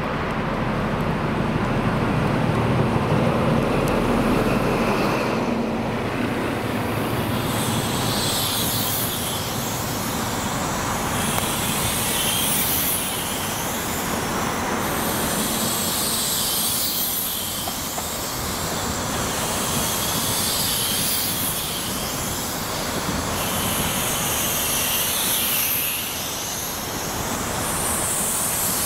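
The Midland Pullman HST, a train with class 43 diesel power cars, passing close by. The leading power car's diesel engine runs with a heavy rumble as it goes by over the first six seconds or so. Then comes the steady rush of the coaches' wheels on the rails, with a brighter clatter recurring every couple of seconds.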